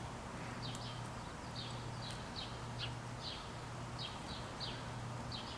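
Small backyard birds chirping: a steady run of short, high chirps, each dropping quickly in pitch, about two or three a second, over a faint steady low hum.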